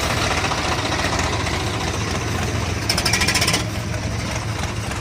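Tractor diesel engine running with a rapid knocking rattle, and a brief louder rattling burst about three seconds in.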